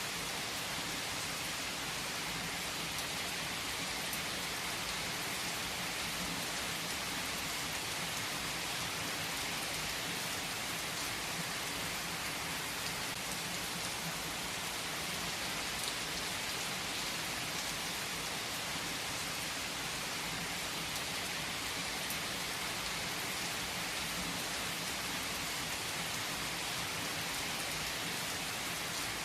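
Steady rain falling, an even hiss of many drops on a surface, unchanging throughout.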